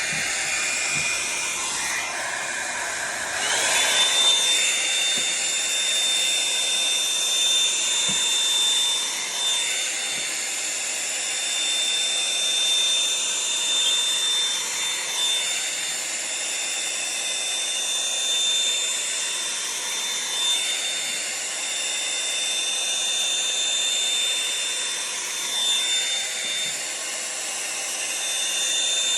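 Revlon One-Step hot-air brush dryer running steadily, a blowing rush with a high motor whine that rises in pitch about three and a half seconds in, then holds steady as the brush is drawn through the hair.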